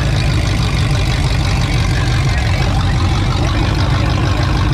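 Demolition derby car's engine idling with a steady low rumble through open exhaust pipes coming up through the hood, heard loud from inside the stripped cab.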